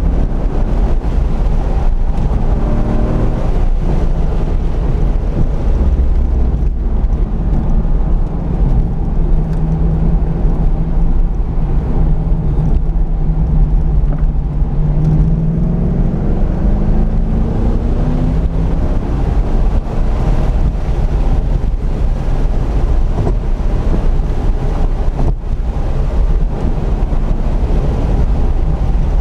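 C5 Corvette Z06's LS6 V8 under load on track, its note rising in pitch several times as the car accelerates out of corners, heard from inside the cabin with wind noise.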